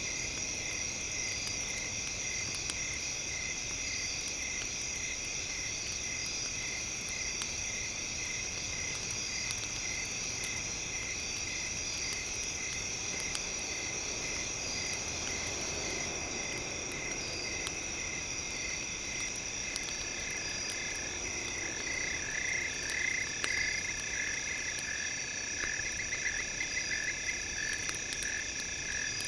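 Night ambience of insects: a steady high buzzing with a chirp about twice a second. From about two-thirds of the way in, frogs start calling, with short pulsed croaks and trills. Faint crackles run underneath.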